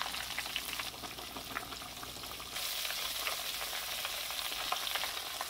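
Flour-coated chicken pieces deep-frying in hot oil: a steady sizzle with many small crackling pops, a little louder from about halfway through.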